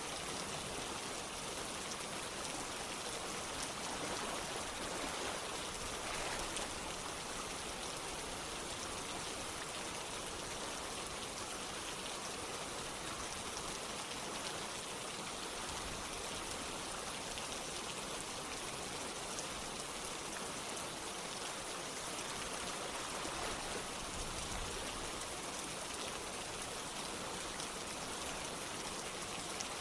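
Steady rain falling together with running water: a dense, even hiss flecked with fine drop patter, without pause.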